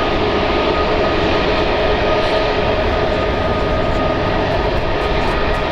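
Jet airliner engines running steadily, a constant rush of noise with a steady whine in several tones over it.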